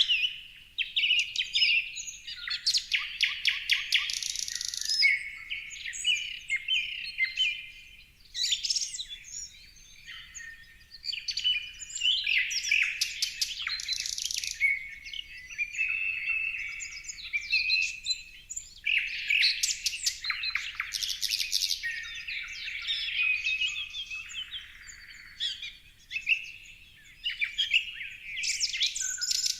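Several songbirds chirping and singing together, a busy mix of rapid trills, short chirps and whistles that come in bursts with brief lulls between them.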